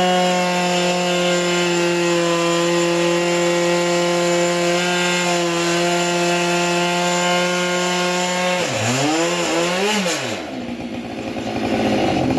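Two-stroke chainsaw on a Logosol chainsaw mill running at steady high revs under load as it rips through a log. About eight and a half seconds in, the revs drop, swing up and down twice, and fall away to a lower, rougher sound.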